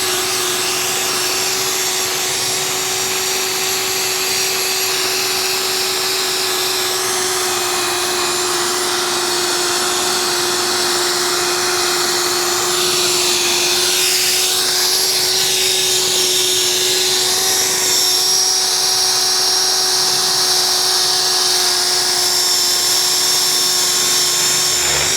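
Drill spinning a polishing attachment against a truck wheel, with a steady motor whine over the hiss of the pad on the metal. It cuts off suddenly at the very end.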